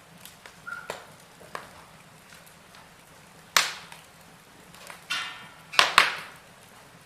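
Wood fire in a fireplace crackling, with a few sharp pops: one loud pop about three and a half seconds in and two more close together near six seconds, over a faint steady hiss.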